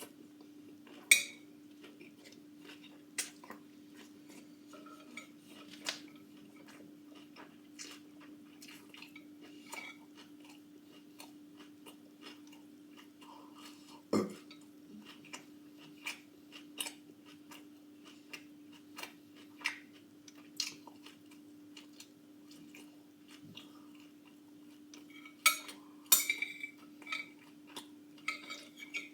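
Scattered light clinks and taps of utensils against dishes, with the loudest a second in and a cluster near the end, over a steady low hum.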